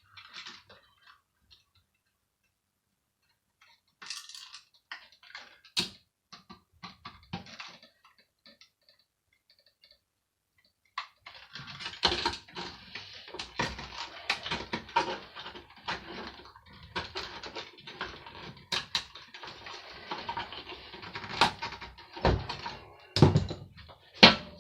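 Clicks and clatter of hand tools on the plastic and metal parts of a hand dryer being dismantled. It is almost silent for the first few seconds, has a few scattered clicks, then from about eleven seconds in there is busy rattling and scraping, with several sharp knocks near the end.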